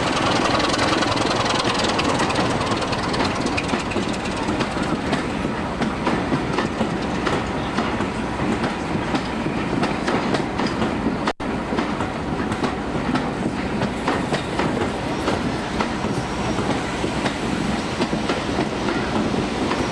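Diesel-hauled passenger train rolling past, its coach wheels clicking over rail joints, with the diesel engine running underneath. The audio drops out for an instant about halfway through.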